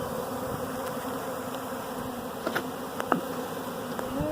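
A swarm of honey bees in flight around a hive box, a steady massed buzzing hum. A couple of sharp clicks come about two and a half and three seconds in.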